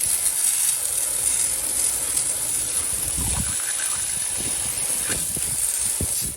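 Spray nozzle hissing steadily during an engine-bay clean, switched on and cut off abruptly.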